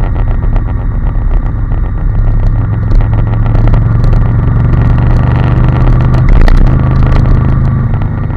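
Honda NC750S motorcycle's 745 cc parallel-twin engine running steadily while riding, with a brief dip in the engine note about six and a half seconds in.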